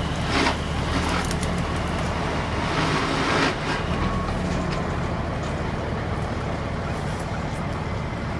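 Diesel locomotive engines running with a steady low rumble as the train moves, with two louder rushes of noise, one just after the start and one about three seconds in.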